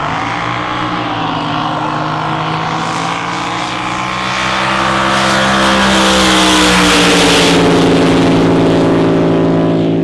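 Racing drag boat engine running at high power through a pass. It grows louder to a peak about six to eight seconds in, and its pitch sags slightly as it goes by.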